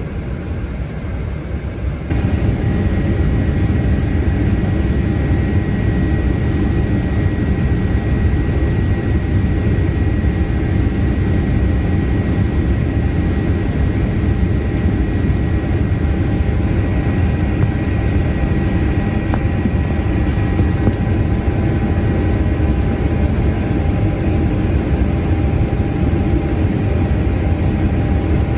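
Steady jet cabin noise of a Boeing 787-8: a continuous low rumble of engines and airflow with a few faint steady tones, stepping up in loudness about two seconds in and then holding.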